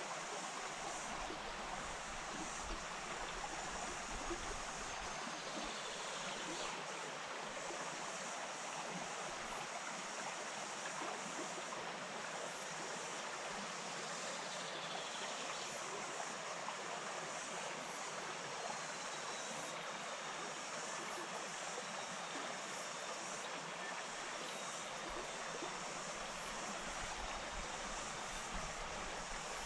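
Wainuitewhara stream, a small bush stream, flowing over its bed in a steady, even rush of water.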